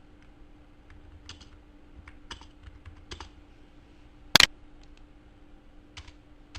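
Computer keyboard typing in scattered, light keystrokes, with one sharper, louder click about four and a half seconds in, over a faint steady hum.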